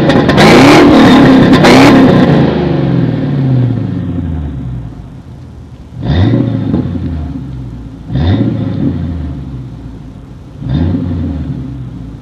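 1995 Ford Thunderbird engine revved through a dual exhaust with JBA headers, H-pipe and Flowmaster 40 Delta Flow mufflers. A held rev in the first two seconds falls back to idle. Then come three short, sharp throttle blips, each dying away.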